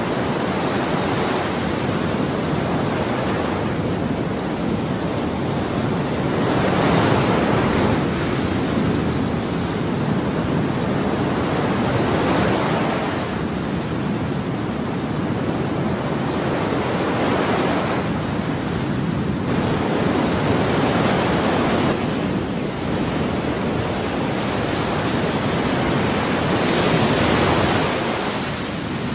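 Ocean surf: a steady rush of breaking waves that swells and eases every few seconds as each wave comes in.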